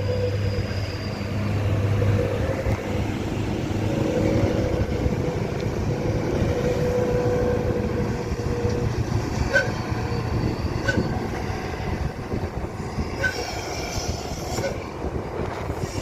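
Heavy truck driving: steady engine and road noise with a whine that drops slightly in pitch near the start, and a few short high chirps in the second half.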